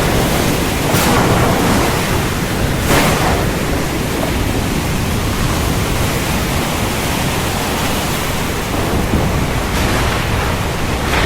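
Heavy rain pouring steadily, a dense hiss with a low rumble underneath and brief louder surges about one and three seconds in.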